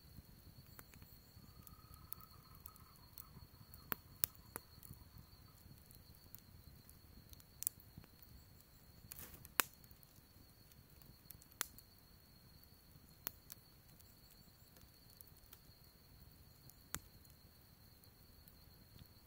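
Wood fire crackling: sparse, irregular sharp pops a second or more apart over a low, soft rush of burning, with a faint steady high tone underneath.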